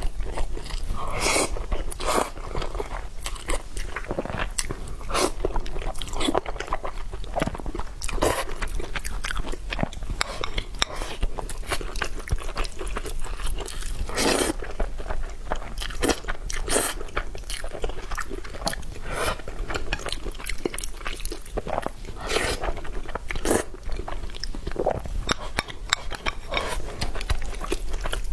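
Close-miked eating: a person biting and chewing crunchy food, with many irregular sharp crunches and wet chewing sounds.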